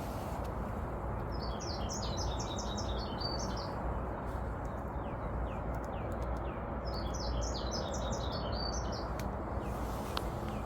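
A small songbird singing two rapid, twittering phrases of high notes, each about two seconds long and a few seconds apart, with a few short thin chirps between them, over a steady background hiss.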